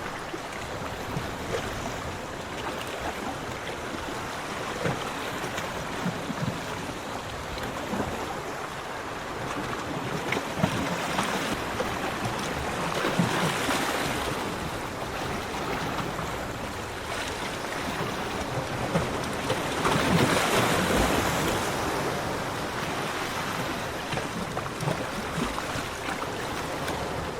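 Sea waves breaking and washing on a beach, a continuous rush of surf that swells louder twice, about halfway through and again about three-quarters of the way in.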